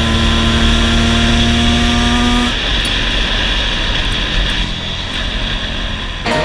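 Dirt bike engine running hard, its pitch climbing steadily. About two and a half seconds in, the clear engine tone breaks off into a rougher, noisier sound.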